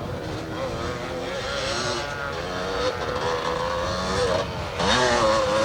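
Two-stroke 250 cc motocross bikes racing, several engines at once revving up and down, with one sharp rising rev near the end.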